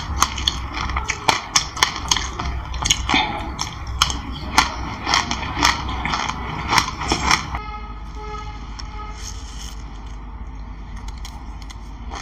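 Close-miked chewing of a mouthful of black sesame seeds and passion fruit pulp: rapid crisp crunches and clicks of the seeds. About two-thirds through, the sound cuts abruptly to a quieter background with only a few faint clicks.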